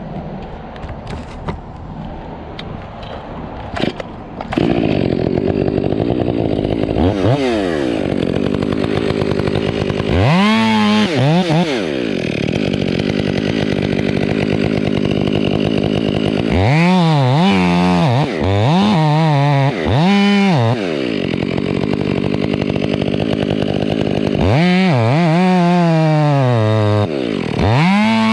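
Chainsaw cutting the felling notch into a pine trunk. It gets loud about four and a half seconds in and runs at high revs, its pitch dropping and recovering several times as the chain bites into the wood.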